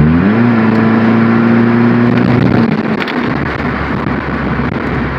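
Straight-piped GM 2.2 L four-cylinder exhaust rising quickly in pitch under light throttle, holding a steady note for about two and a half seconds, then falling off to a lower, rougher drone as the throttle is lifted.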